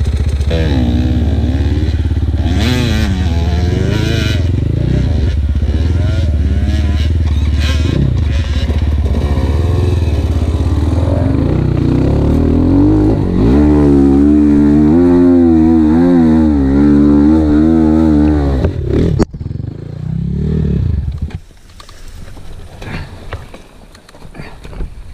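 Single-cylinder four-stroke engine of a ZUUM dirt bike (174-series motor) revving under load, its pitch rising and falling, then held high for several seconds. About three-quarters of the way through it cuts off suddenly, a short rev follows, and then it goes quiet.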